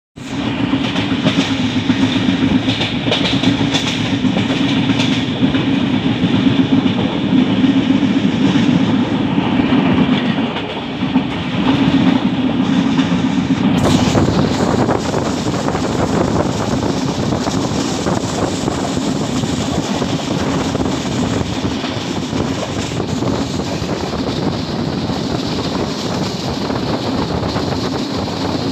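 Train running at speed, heard from on board: steady noise of the wheels on the rails, whose tone changes about halfway through.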